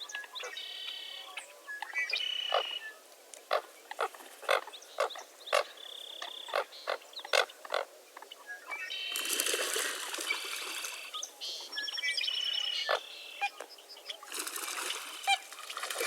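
Wetland wildlife chorus: many short, sharp calls at irregular intervals and a few held whistled notes. Two spells of dense, rapid chattering come about nine and fourteen seconds in.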